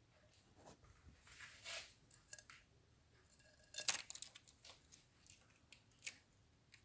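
Faint scattered clicks and rustles from a cockatiel shifting and picking at her nest, with one sharper click about four seconds in.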